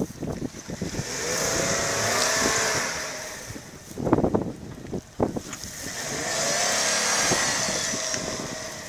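Volkswagen Touareg's engine revving in two long swells, rising and then falling, as the SUV tries to drive out of a rut it is stuck in. A couple of loud knocks come between the two revs.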